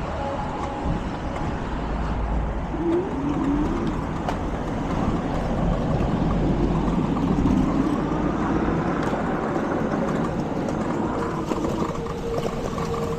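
Car engines and road noise as a steady low rumble, with an engine's pitch rising briefly about three seconds in and a steady engine tone in the last couple of seconds.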